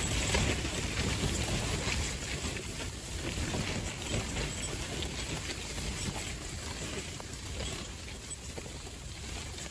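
Gusty wind buffeting the microphone: a low rumble with hiss, loudest in the first few seconds and easing off later.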